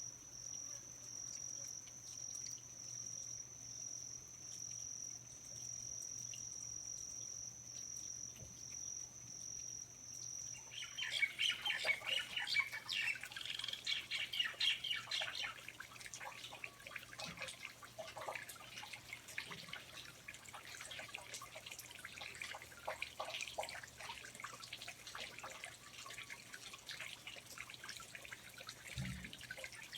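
A steady high-pitched insect trill, cricket-like, that breaks off abruptly about eleven seconds in. Many birds chirping and calling over one another follow.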